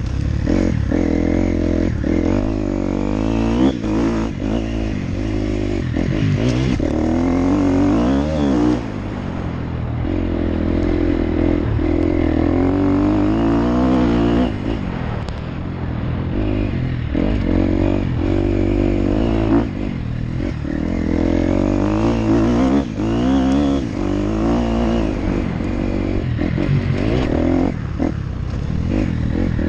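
Motocross bike engine revving hard and easing off over and over as it is ridden, its pitch rising and falling, with scattered clattering knocks.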